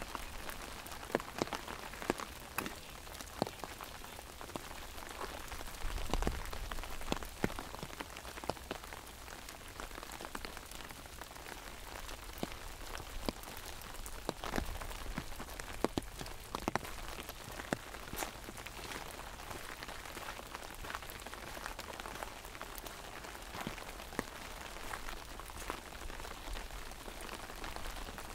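Steady rain falling, with many sharp single drops pattering on an umbrella overhead.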